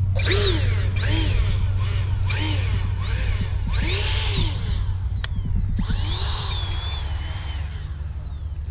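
A radio-controlled model airplane's motor whining overhead, its pitch rising and falling in about five arcs as the plane passes and maneuvers, over a steady low hum.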